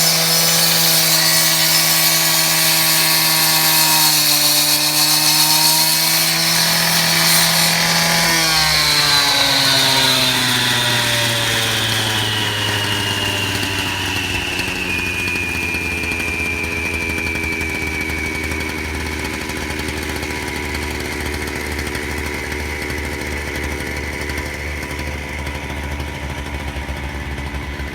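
Engine-driven wet saw running at full speed, its pitch wavering briefly as if under load. About eight seconds in the engine drops back and the blade's high whine falls slowly as it spins down over some ten seconds. The engine then settles to a lower, pulsing idle.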